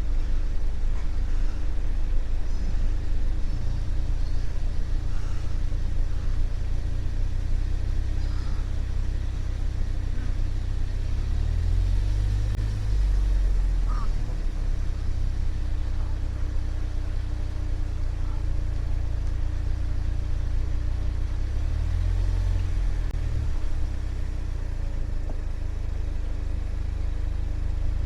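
Car rumbling along a dirt road, with a steady hum over it. Faint bird calls come through now and then.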